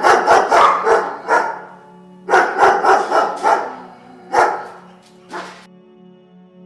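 A dog barking: two quick runs of barks, then two single barks, over a soft background music bed of held tones.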